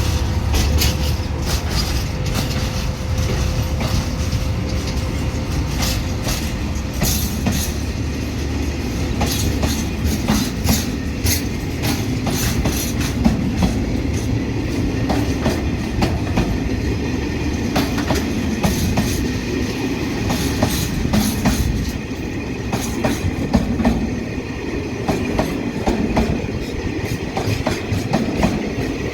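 A train rolling past, its wheels clicking over the rail joints in a running clickety-clack over a steady rumble.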